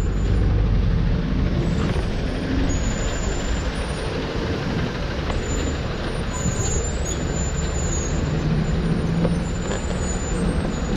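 Large street-cleaning water truck running: a steady low rumble under an even hissing rush.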